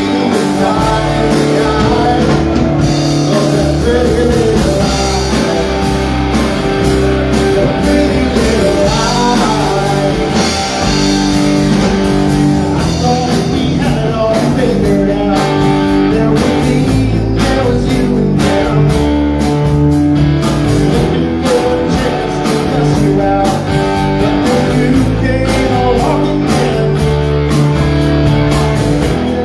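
Live rock band playing, with electric guitar over bass and drums, loud and steady.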